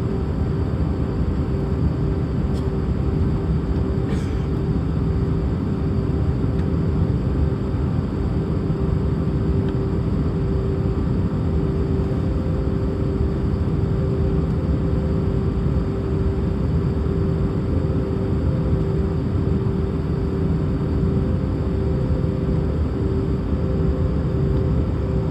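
Steady cabin noise inside an Airbus A319 airliner: a constant low rumble of engines and airflow with a steady hum running through it.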